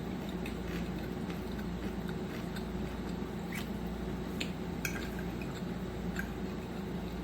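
Close-up chewing and small wet mouth clicks of someone eating, scattered and irregular, over a steady low hum.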